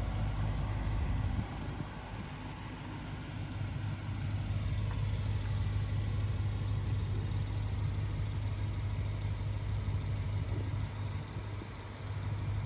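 Lexus GS-F's 5-litre V8 idling steadily through its RR Racing Valvetronic exhaust, low in pitch.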